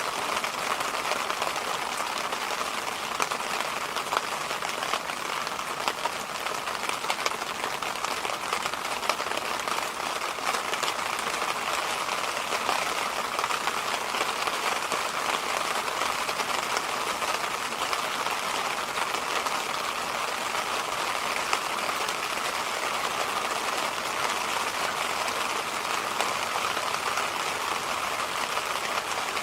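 Electric fan running steadily: an even, unbroken rush of air that does not change.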